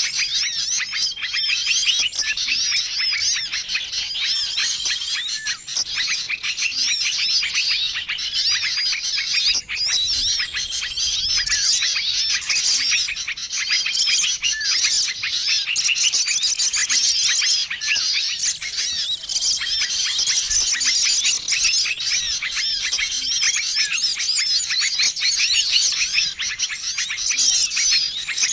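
Dense, busy chorus of many small songbirds chirping and twittering without pause, a mixed bird-lure recording. A short, flat whistled note recurs every couple of seconds over the twittering.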